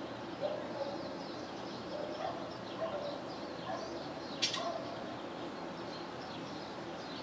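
Small songbirds chirping and twittering, several short calls overlapping, with a single sharp click about four and a half seconds in.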